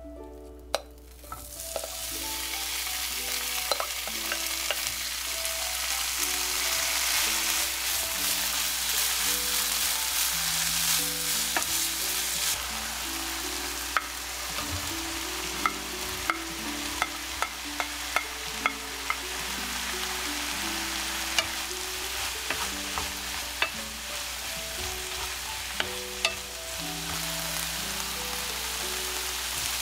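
Sweet potato stems sizzling in a hot frying pan as they go in and are stirred. The sizzle starts about a second and a half in and is loudest for the first dozen seconds, with scattered sharp clicks from the wooden spoon and stems against the pan. Soft plucked background music plays underneath.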